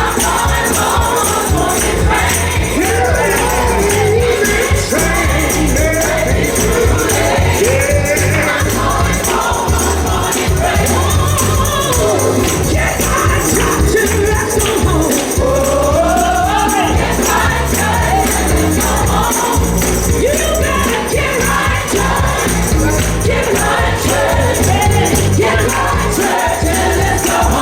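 Gospel song sung by a choir over a steady bass beat, with a tambourine shaking along.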